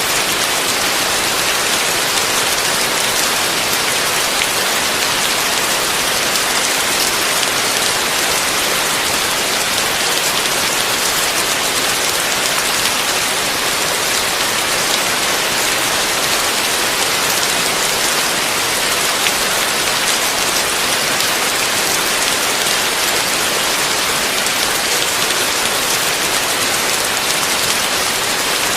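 Heavy rain falling steadily on a roof, a dense, even hiss.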